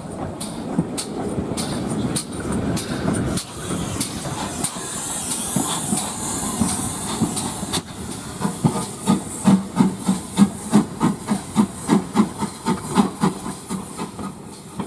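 Steam train running: a rush of steam hiss, then from about halfway a steady rhythm of about three beats a second that grows louder and then eases off.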